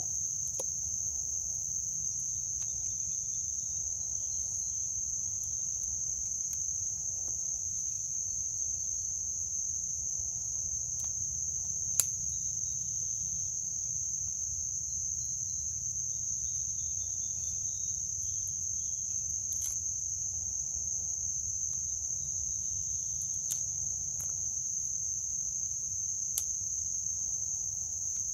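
Steady, high-pitched insect chorus trilling without a break. A few sharp snaps of small twigs being broken off by hand sound over it, the loudest about twelve seconds in.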